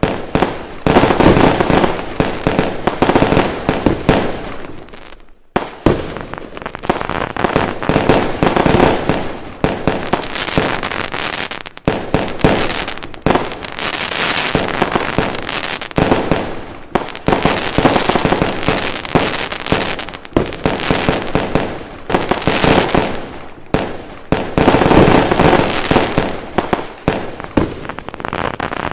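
Fireworks: a dense, continuous barrage of bangs and crackling, with a brief lull a little over five seconds in.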